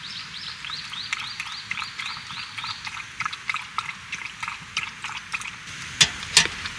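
An animal calling in a fast run of short chirps, about five a second, fading out a few seconds in. Two sharp knocks come near the end.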